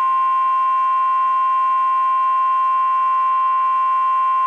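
NOAA Weather Radio's 1050 Hz warning alarm tone: a single loud, steady, unbroken beep, the signal that a new weather warning is about to be read.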